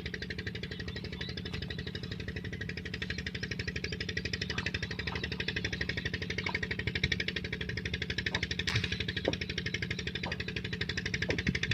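Peter diesel engine running steadily at the tube well, a rapid, even thumping as it drives the irrigation pump.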